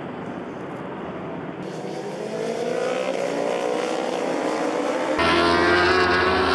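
Racing motorcycle engines at high revs: one bike's engine climbs steadily in pitch as it accelerates, then a sudden cut to another engine running louder near the end.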